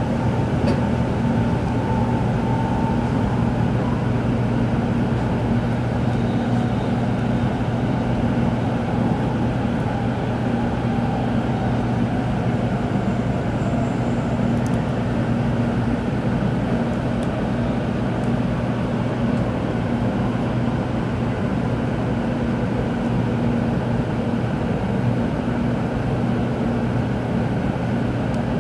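Interior noise of a Tokaido Shinkansen car: a steady rumble with a low hum, unchanging throughout.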